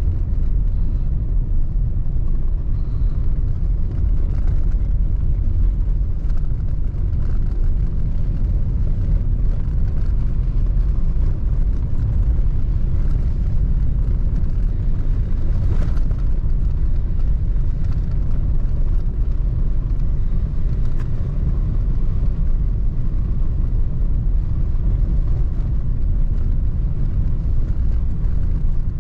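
Steady low rumble of a vehicle driving on a snow-covered gravel road: engine and tyre noise.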